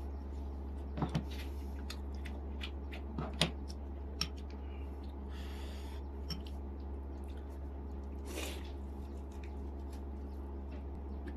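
Close-miked eating: scattered wet smacks and clicks of chewing steamed chicken, with a short hiss of breath or rustle midway. A steady low hum sits under it all.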